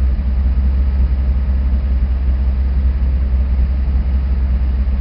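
Mercedes W140 S600's 6.0-litre V12 idling steadily through a Lorinser aftermarket rear silencer, a deep even exhaust rumble with no revving.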